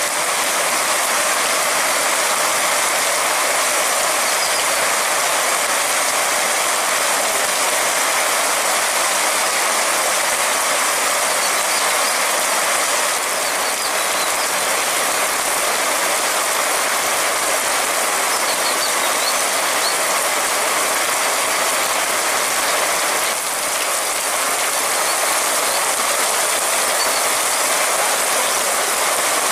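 Heavy rain falling steadily: a dense, even patter of drops hitting the pavement, parked cars and roofs.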